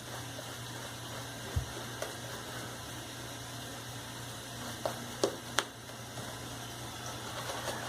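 Shaving brush working up a thick, wet soap lather: a faint, steady bubbly swishing as the soap takes on water, with a few short clicks.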